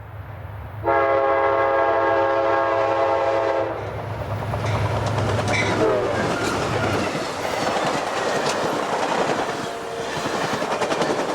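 Amtrak passenger train passing at speed: its horn sounds one long chord of about three seconds, then the train rushes by with a low engine rumble that drops away about seven seconds in, followed by loud, windy rushing and wheels clattering over the rail joints.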